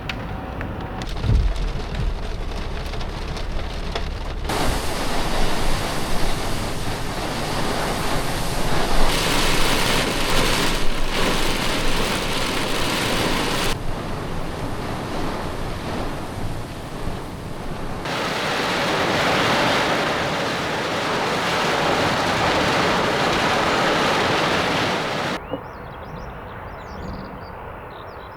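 Thunderstorm sounds in several cut-together stretches: a steady rushing of rain and wind, with a low rumble in the first few seconds. It drops noticeably quieter near the end, where faint high chirps come through.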